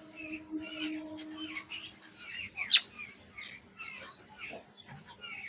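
Many birds chirping together in short overlapping calls, with one sharper call about halfway through. A steady low hum sits under them for the first two seconds.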